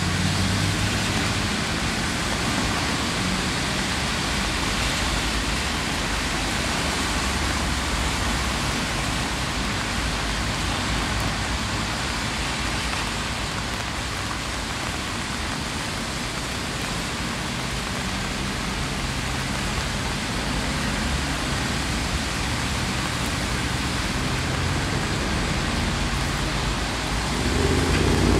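Steady rain falling on wet ground and puddles. Underneath it, the low hum of road traffic comes and goes, with a vehicle growing louder near the end.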